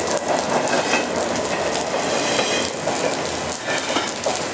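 Freight train of double-stack container well cars rolling past, wheels clicking over the rail joints, with steady rain hiss.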